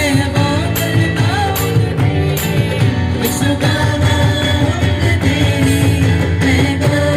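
Worship song played by a live band: a steady beat with high percussion hits about every 0.8 seconds over heavy bass, with a gliding melody line above.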